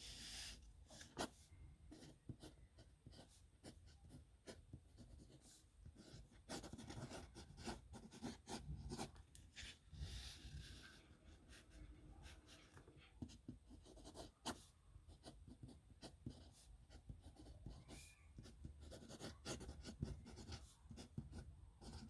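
Faint pen nib scratching across paper in quick, irregular strokes as signatures are written by hand.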